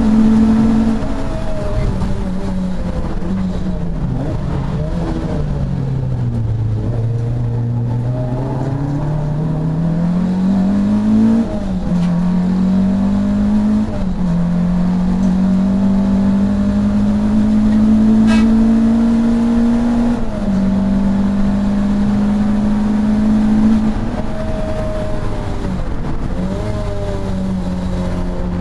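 Racing saloon car engine heard from inside the car. The note sinks low as the car slows for a tight corner, then climbs as it accelerates out. Several upshifts follow, each a sudden drop in pitch before it climbs again.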